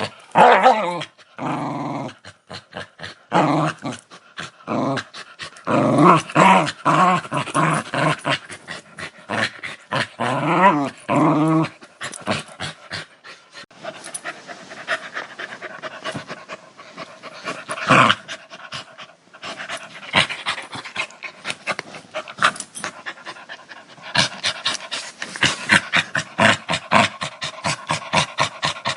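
A dog growling in repeated bouts, the growls loud and pitched with a rapid pulsing for roughly the first twelve seconds. After that they give way to quieter, quick, breathy pulses that grow fast and regular near the end.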